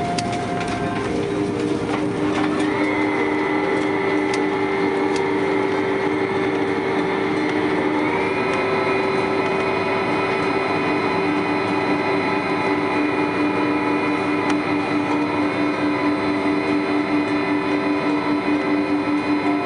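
Cabin noise of an Airbus A330 on the ground just after landing: the engines' steady whine over a low rumble from the wheels. A higher whine steps up in pitch about three seconds in and again about eight seconds in, and the rumble pulses evenly near the end.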